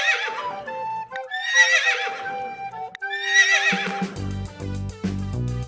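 Horse whinnying three times, each call a wavering neigh under a second long, about a second and a half apart.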